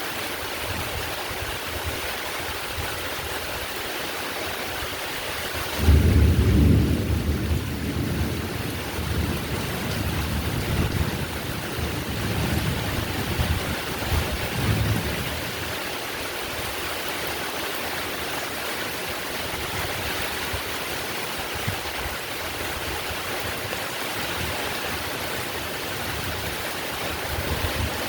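Heavy rain falling steadily in a thunderstorm. About six seconds in, a roll of thunder breaks in suddenly and rumbles on, fading over several seconds. Another rumble starts at the very end.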